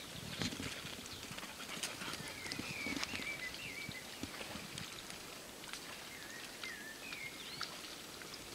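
Bird chirping in short wavy phrases, in two bouts, over scattered light clicks and crackles.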